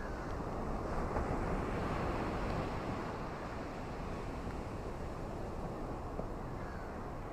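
Ocean waves washing onto a beach, a steady rushing noise that swells about a second in and eases off again.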